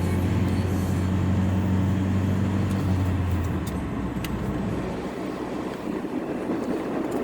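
Car driving on wet roads, heard from inside the cabin: a steady low drone stops about halfway through, leaving the even rush of road and tyre noise.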